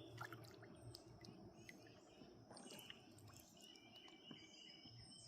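Near silence: faint outdoor ambience with a few scattered short bird chirps, and a thin steady high insect-like trill that starts about three and a half seconds in.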